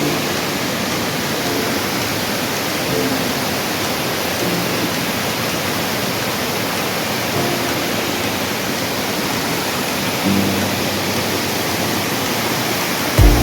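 Waterfall rushing steadily, an even hiss of falling water, with faint background music under it.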